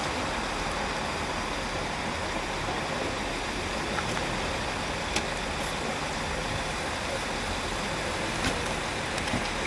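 ADH11 regional train approaching slowly, a steady distant rumble with a few faint clicks.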